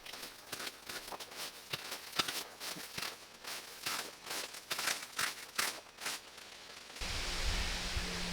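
Dry sticks, twigs and leaves crackling and snapping in quick, irregular clicks as brush is handled. About seven seconds in it cuts off suddenly and gives way to a steady rushing noise with a low hum.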